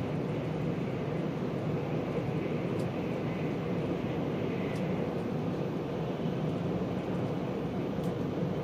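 Steady cabin running noise inside an E4 Series Max double-decker Shinkansen travelling between stations: an even low rumble.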